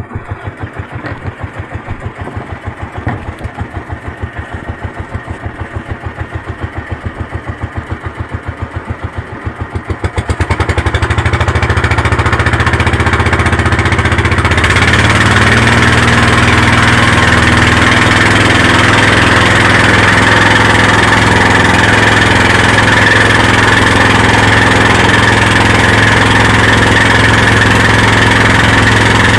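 Motorboat engine idling with an even throb, then opening up about ten seconds in and running loud and steady under power.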